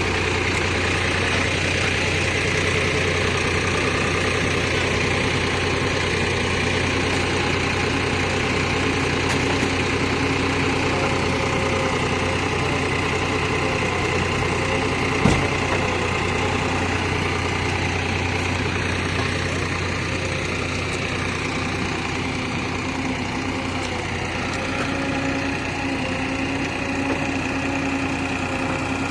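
Diesel engine of a JCB 3DX backhoe loader running steadily at low revs, with a faint wavering whine over it and one sharp knock about halfway through.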